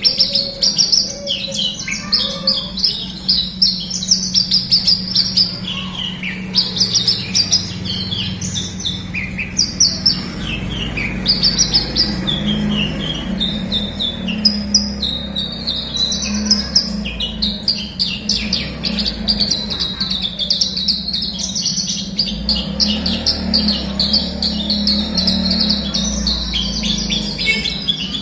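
Javan bush lark (branjangan) singing a long, fast run of high chirps and trills with only brief pauses, over a low steady hum.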